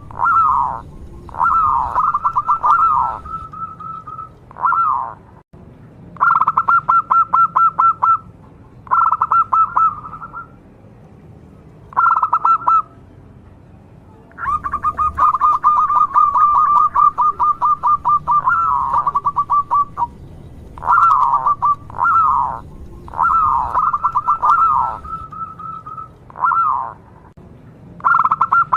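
Zebra dove (perkutut) song: repeated phrases of quick, staccato cooing notes run together into trills, some ending in falling notes. One long run of about six seconds comes midway.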